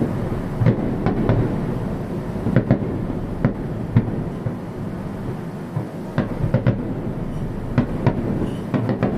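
Fireworks going off in quick succession: a continuous rumble of booms and crackling, with sharp reports every second or so.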